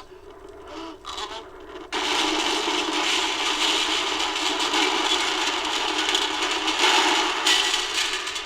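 Sound effect of a brick building falling down: a long crash and rumble of tumbling masonry that starts suddenly about two seconds in and fades away near the end.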